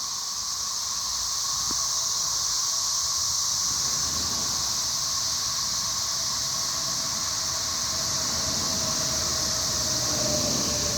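Chorus of periodical cicadas: a steady, loud, high-pitched buzzing drone that holds without change, with a lower hum woven through it.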